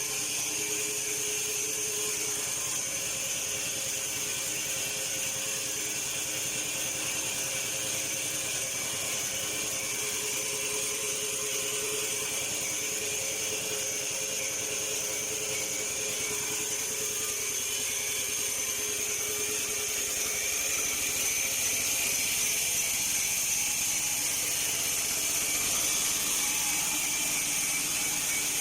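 Portable bandsaw mill running steadily with its blade sawing through a log, getting a little louder about two-thirds of the way in.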